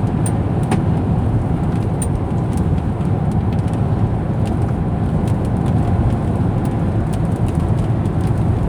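Steady low rumble of a car driving, heard from inside the cabin, with faint ticks scattered through it.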